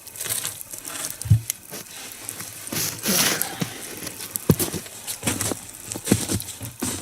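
Crackling of a two-log nodya fire, with a few wooden knocks and rustling as the burning logs and their props are handled.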